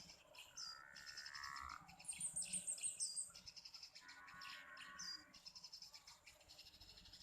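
Small birds chirping and twittering: short falling chirps about three times and a quick run of about eight high notes in the middle, over a steady high pulsing trill.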